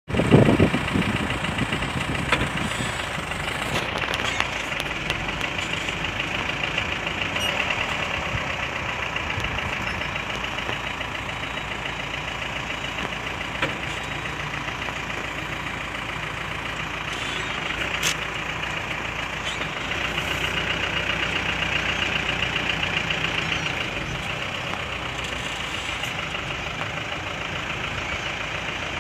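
Truck engine idling steadily, with a few brief clicks.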